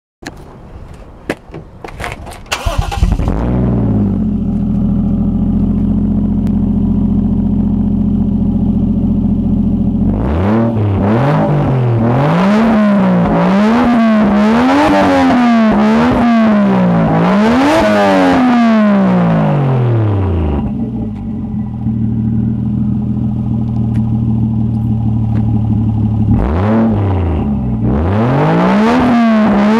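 Toyota Chaser Tourer V (JZX100)'s 1JZ-GTE turbocharged straight-six running with the muffler removed, an open exhaust. It is cranked and catches about three seconds in, idles steadily, is revved up and down repeatedly from about ten seconds in, settles back to idle, and is revved again near the end.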